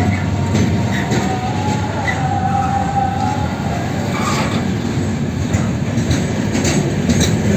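Container flat wagons of a freight train rolling past close by: a steady low rumble of wheels on rail, with high wheel squeal rising and fading and scattered sharp knocks.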